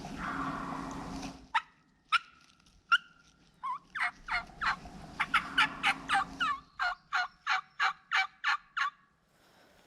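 Footsteps rustling in dry leaves for about the first second, then a few sharp clucks and a run of about fifteen hen-turkey yelps, about three a second, from a hunter's turkey call, used to draw a tom to gobble.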